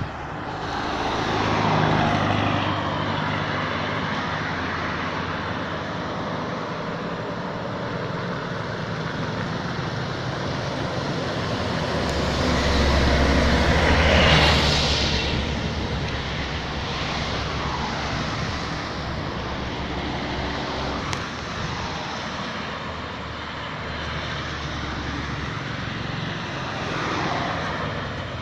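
Heavy road traffic: trucks and buses driving past, their engines and tyres swelling and fading. The loudest pass comes about fourteen seconds in, another about two seconds in.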